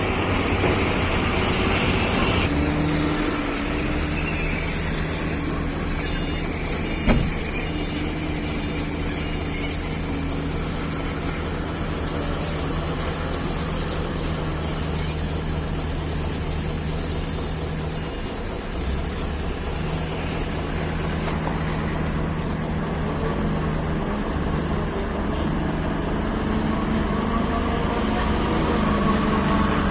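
Heavy vehicle engine running steadily, with a sharp click about seven seconds in and the engine speed rising near the end.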